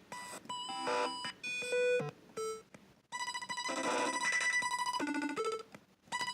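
Teenage Engineering pocket operator synth playing bleepy electronic notes. First come a few separate short tones, then from about three seconds in a busy looping pattern with a fast repeating beep, which cuts out briefly just before the end.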